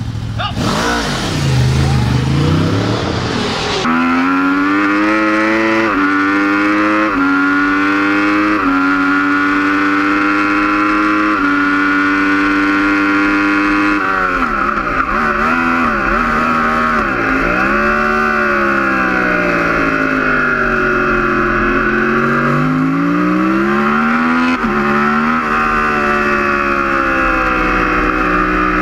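Yamaha R1 superbike's inline-four engine heard from an onboard camera, accelerating hard through the gears, its pitch climbing and dropping at each upshift. Later the revs fall and rise in long sweeps with braking, downshifts and corner exits. For the first few seconds a different, rougher engine sound comes from the pit lane.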